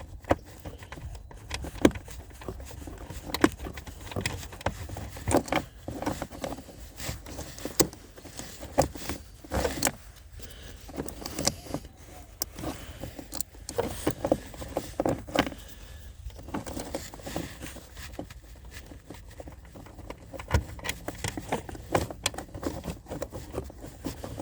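Irregular small clicks, taps and light rattles of a nut being handled and worked by hand onto the bottom stud of a car taillight housing.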